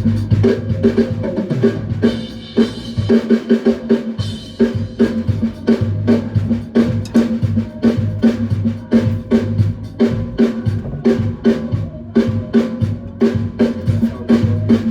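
A band rehearsing: a drum kit plays a busy, steady beat of kick, snare and cymbals over electric bass guitar notes.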